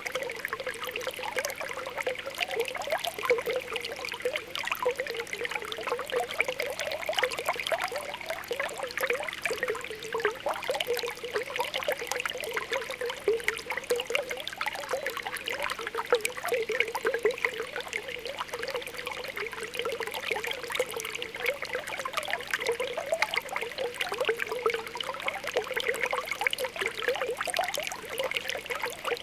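Spring water welling up and bubbling, a continuous stream of small popping and gurgling sounds at a steady level.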